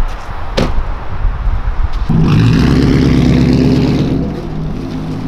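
Car engine accelerating hard for about two seconds, then easing off to a steadier, quieter run. A sharp click comes about half a second in.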